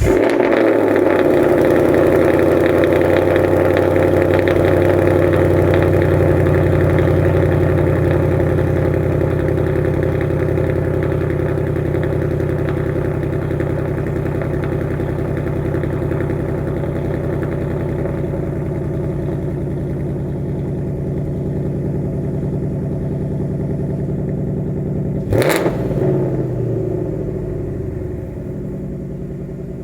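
2018 Ford Mustang GT 5.0 V8 cold-starting and running at a loud, fast idle through its active exhaust with the resonators deleted by a Steeda H-pipe. The idle slowly settles and quietens as the engine warms. About 25 seconds in there is one short, sharp throttle blip.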